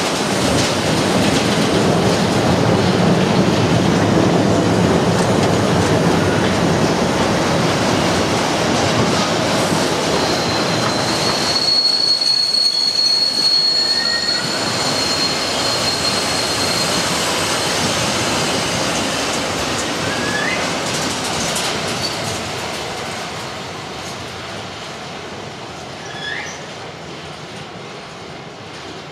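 Empty flat wagons of a freight train rolling past, wheels rumbling and clattering on the rails, with a steady high wheel squeal for a few seconds about ten seconds in. The noise fades as the end of the train draws away.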